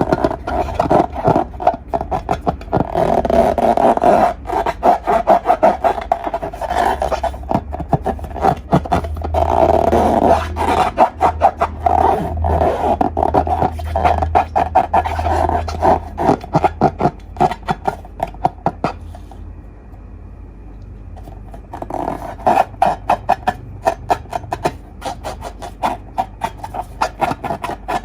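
Slime being worked by hand, giving dense rapid crackling clicks over a sticky rubbing sound, which eases off briefly about two-thirds of the way through and then resumes.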